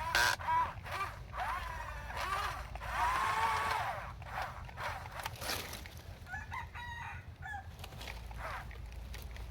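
Chickens calling: a series of short arched calls, most of them in the first four seconds, then fainter, choppier calls, over a steady low rumble.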